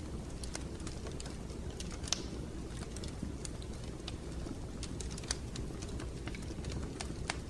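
Wood fire in a fireplace crackling, with irregular sharp pops and snaps over a steady low rumble; two louder pops about two seconds and five seconds in.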